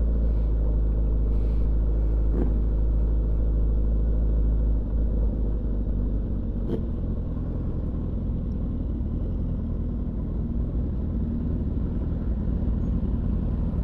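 Motorcycle engine running steadily under way; about five seconds in its note drops and turns into a lower, rougher rumble. Two brief clicks in the first half.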